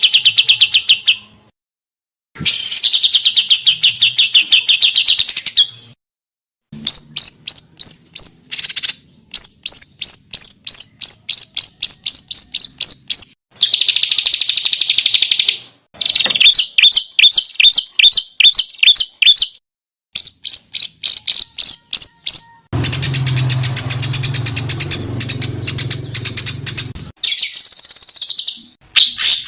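Edited songbird recordings for masteran bird training: rapid runs of sharp repeated chips and buzzy trills, many notes a second, in separate clips cut apart by short silent gaps. One clip, about two-thirds of the way in, has a low hum under it.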